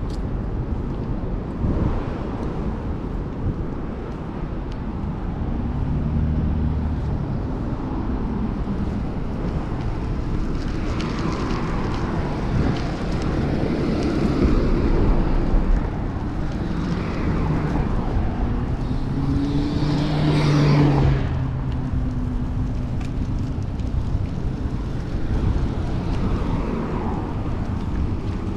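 City street traffic heard from a moving bicycle: a steady rush of wind and road noise, with motor vehicles passing. The loudest pass is a vehicle going by close, about two-thirds of the way in.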